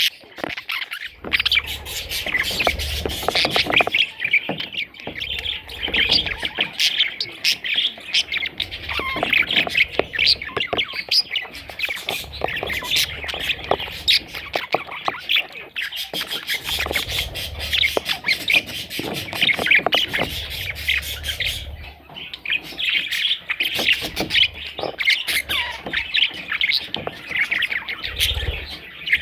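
Budgerigars chattering and squawking without a break, many quick overlapping chirps. A low rumble comes and goes underneath.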